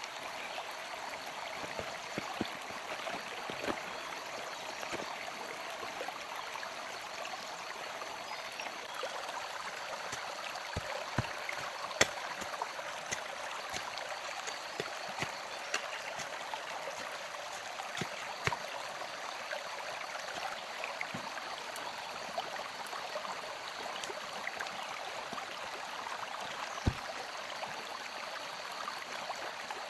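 Steady rush of a flowing stream, with scattered small clicks and two sharper knocks, one about twelve seconds in and one near the end.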